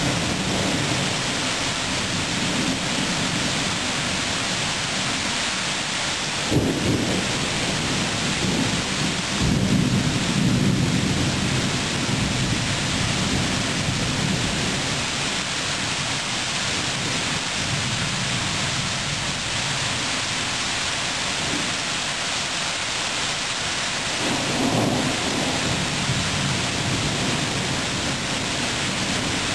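Thunderstorm: steady heavy rain, with thunder. A sharp crack comes about six and a half seconds in, followed by low rolling rumbles near ten seconds and again near twenty-five seconds.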